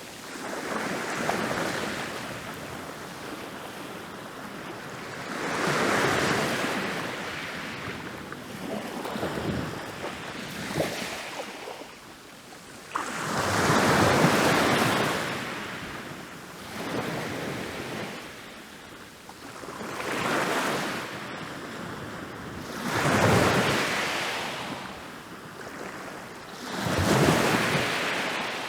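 Ocean waves rolling in and breaking on a beach, one after another every few seconds, each a rush of surf that swells and then washes back. The biggest wave crashes in suddenly about halfway through.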